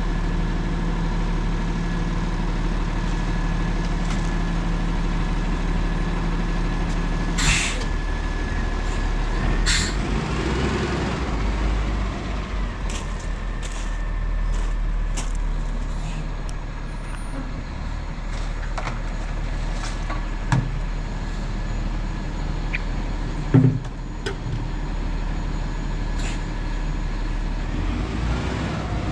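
Autocar ACX rear-loader garbage truck running steadily with the engine's hum, broken by two short sharp air hisses about a quarter and a third of the way in, and a few knocks and bangs later on.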